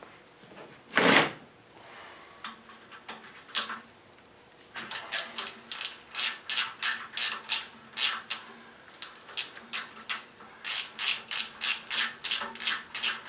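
Hand ratchet clicking in quick, even strokes, about three clicks a second, as it backs out bolts on an engine block. There is a short pause about two-thirds of the way through. One louder knock comes about a second in.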